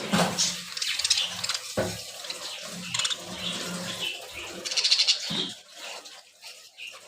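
Pet budgerigars chattering and chirping in quick, busy bursts, livelier in the first five seconds and thinning out near the end.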